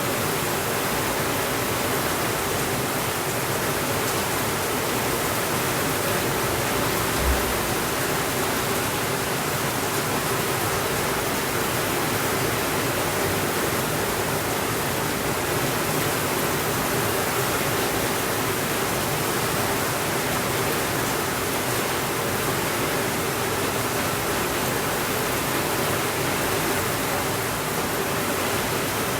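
Steady rain falling, an even hiss with no pauses, with one brief low thump about seven seconds in.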